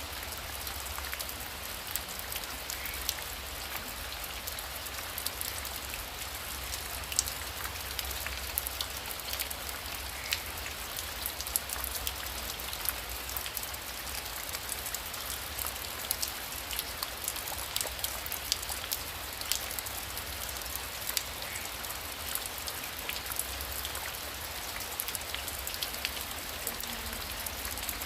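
Heavy rain falling steadily, with many individual drops ticking sharply against a surface close by over a low rumble.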